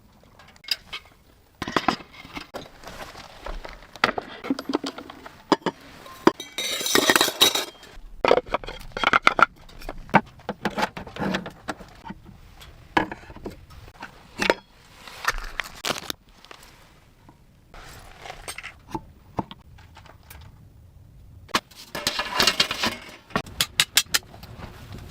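Irregular clinks and taps of small hard objects being handled, with stretches of louder rustling or crunching.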